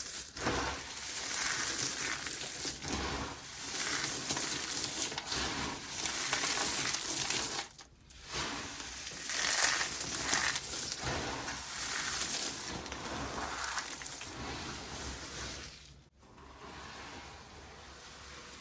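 Dry soap being crushed by hand: a dense run of crunching and crackling, broken by two brief pauses and quieter near the end.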